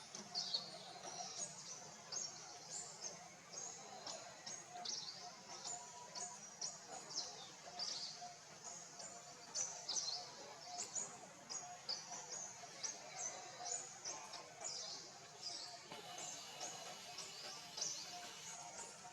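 Many small birds chirping continuously, short high calls overlapping several times a second.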